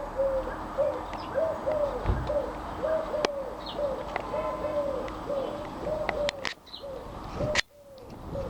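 A pigeon cooing in a quick run of short, arched coo notes, about two to three a second. Sharp clicks and a few high chirps from small birds are heard over it.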